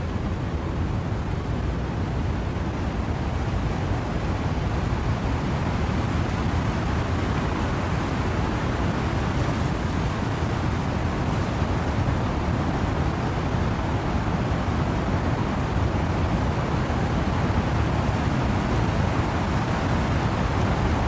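Windy rain in trees: a steady, deep rushing noise with no single drops or gusts standing out.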